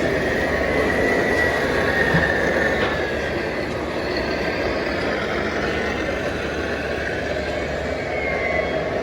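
Radio-controlled model trucks driving: a steady whir of small electric motors and gearboxes, with a thin whine that drifts up and down in pitch.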